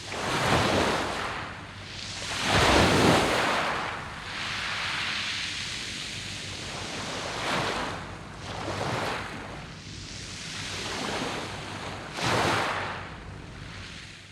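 Sea waves breaking on a pebble beach of round stones, the wash swelling and falling back in about five surges, the loudest about three seconds in.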